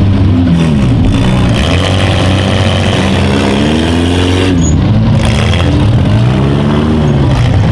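Compact cars' engines revving hard in a demolition derby, several of them at once, their pitch rising and falling over and over as the cars drive at each other.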